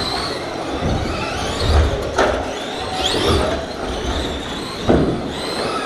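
Radio-controlled race trucks' motors whining over the track, one whine rising sharply in pitch as a truck accelerates, with two sharp knocks about two seconds and five seconds in.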